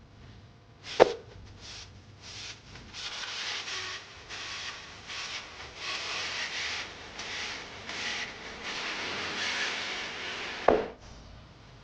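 Spatula scraping and tossing greens in a wok, in repeated scraping strokes, with a sharp knock about a second in and another near the end.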